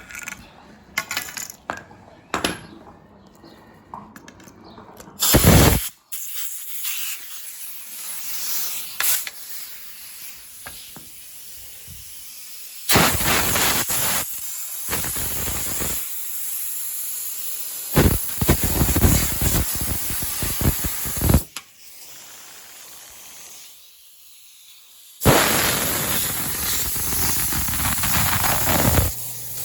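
A spray nozzle hissing in long bursts that start and stop several times, consistent with cleaning the lawnmower. Before the spraying there are a few scattered clicks and knocks and one loud thump.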